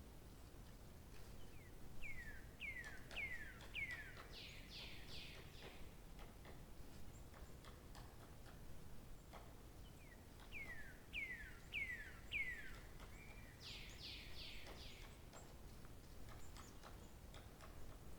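A songbird singing the same phrase twice, several seconds apart: four or five falling whistled notes, then a quick run of higher notes.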